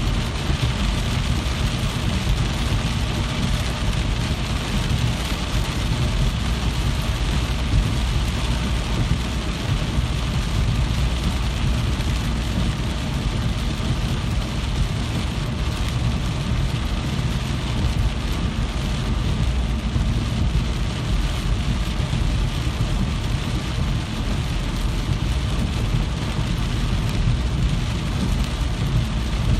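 Steady, even rain with a deep low rumble beneath it.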